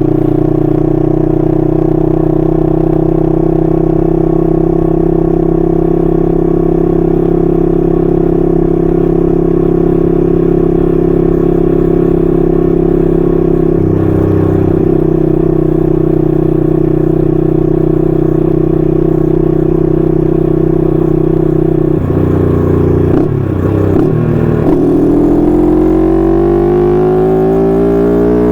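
1968 Honda CL250's 250cc parallel-twin engine running through its stock mufflers at a steady cruise. There is a brief break about halfway, and some uneven throttle changes later on. Near the end the engine speed rises steadily as it is revved up.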